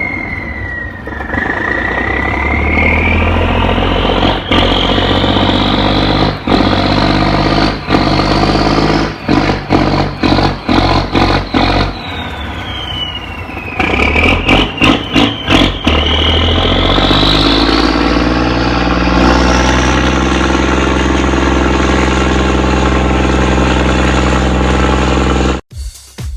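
Boat's Cummins diesel engine running hard, with a high whine that climbs, drops back near the middle, and climbs again as the engine is throttled up. The engine cuts off abruptly near the end.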